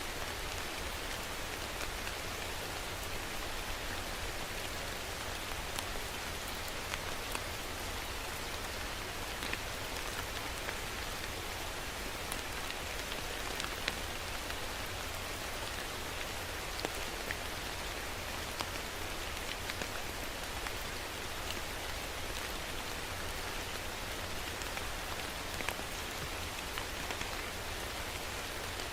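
Steady rain falling on a hard surface, with a constant hiss and many scattered individual drop taps.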